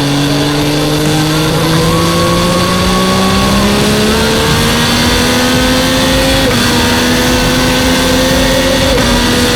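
MV Agusta Dragster 800's three-cylinder engine running under load, its pitch climbing slowly and steadily, with brief small dips about six and a half and nine seconds in.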